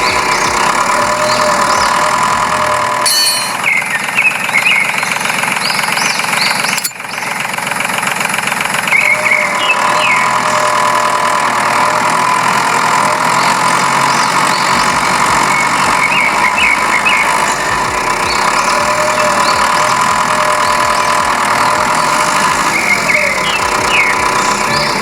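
The small motor of a DIY mini tractor model running steadily, with a steady high whine. Short high chirps come and go over it.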